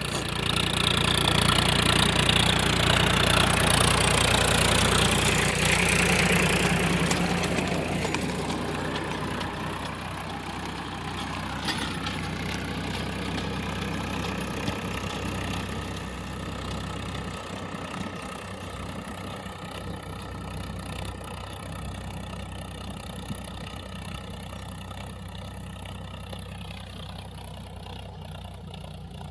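Tractor engine running steadily, loudest in the first eight seconds or so, then easing off to a quieter, even run.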